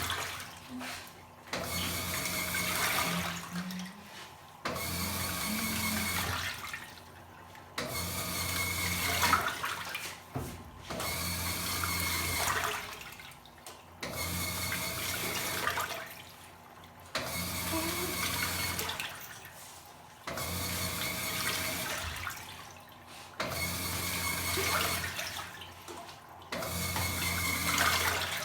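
Top-loading washing machine in its agitation cycle: the motor hums and the water and clothes slosh for about two seconds, then a short pause before the next stroke, repeating about every three seconds.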